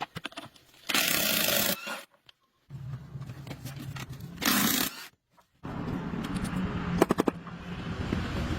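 Workshop tool noise in short, abruptly cut pieces: a loud rushing hiss about a second in and again just before the middle, and a steady low hum with a few sharp clicks in the second half.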